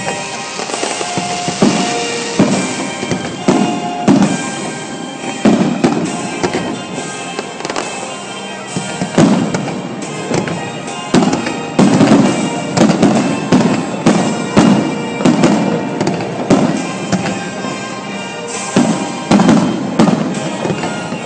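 Aerial firework shells bursting in quick succession, many sharp bangs one after another, with music playing alongside.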